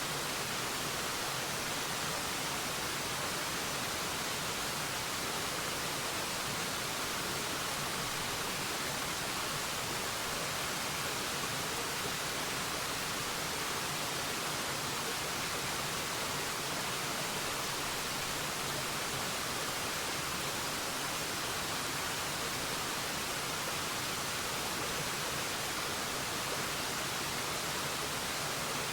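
Forest waterfall: the steady, unbroken rush of falling water, an even hiss weighted toward the high end.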